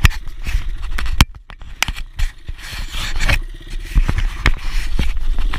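Dirt bike engine idling under close scraping, clicking and knocking, with a steady low rumble; the sound drops out briefly about a second and a half in.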